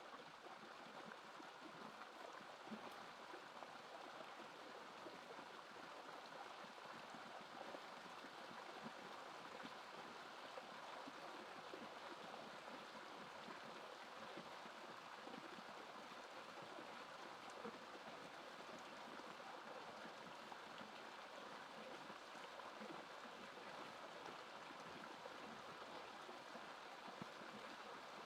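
Faint, steady rush of running water, like a stream.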